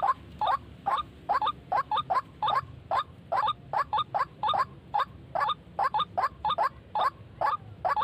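White-breasted waterhen call: rapid, repeated harsh notes, about three to four a second and often in quick pairs, the lure call used to draw the birds in.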